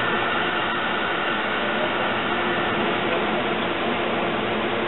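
Steady whooshing hum of an electric push-pull train at the platform, its locomotive blowers and coach air-conditioning running, with a few faint steady tones over the hum.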